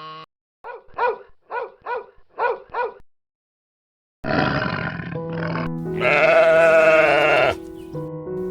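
A run of six short, quick calls, a pause, then a long wavering bleat from a sheep or goat, with steady musical notes underneath.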